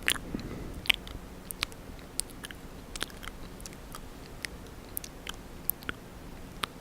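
Close-up wet mouth sounds: irregular sharp clicks and smacks of tongue and lips, about one or two a second.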